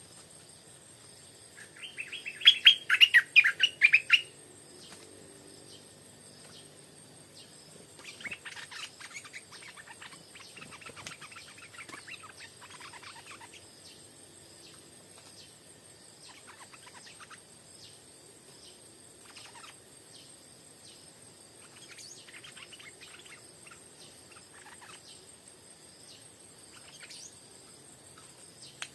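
Stripe-throated bulbul singing: a loud burst of rapid notes about two seconds in, then quieter phrases and scattered calls, over a steady high insect drone.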